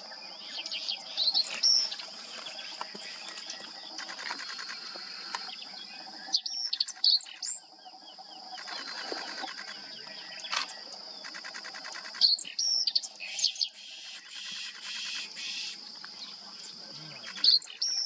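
Short, sharp, high bird chirps in clusters every few seconds over a steady high-pitched insect drone, with stretches of rapid buzzy insect trilling.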